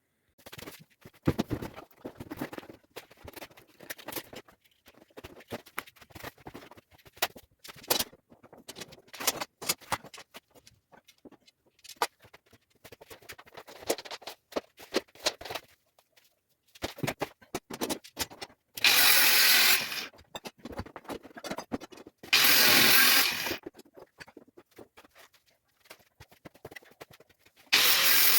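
Scattered clicks and scrapes of steel reinforcing bar and tie wire being handled, then a power tool run in three short bursts of a second or so each, the loudest sounds here.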